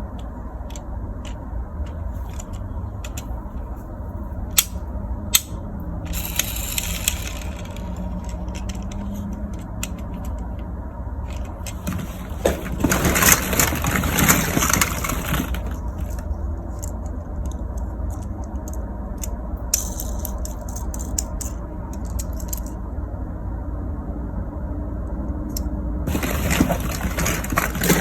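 Plastic toy cars and ball-pit balls clicking and rattling as they are handled, in several short bursts of clatter over a steady low rumble.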